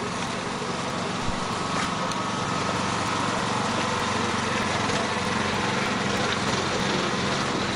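An engine running steadily at constant speed, with a low even hum.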